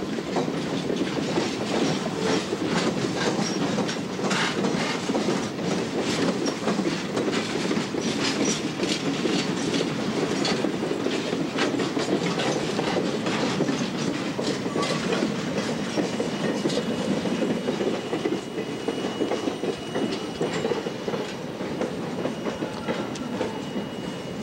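A freight train of torpedo bottle cars and hoppers rolls steadily past, its wheels clicking over rail joints. From about two-thirds in, a thin, steady wheel squeal joins in.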